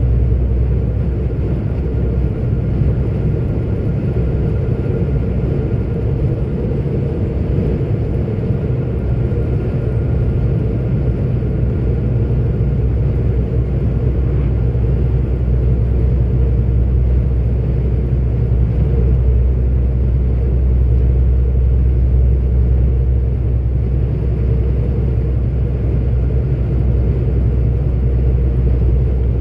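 A 44-ton articulated truck's diesel engine and road noise, heard from inside the cab while cruising: a steady low rumble with no changes of pace.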